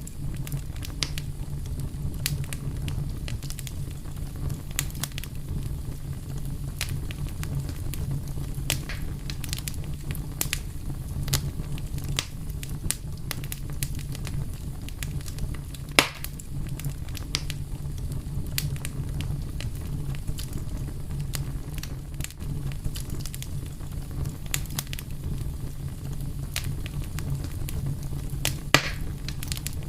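Crackling fire: a steady low rumble of flames under frequent small crackles, with a sharper pop about halfway through and another near the end.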